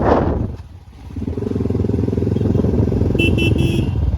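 Motorcycle engine idling with a steady, rapid pulse, after a brief dip in level just before a second in. Three short beeps sound over it a little past three seconds in.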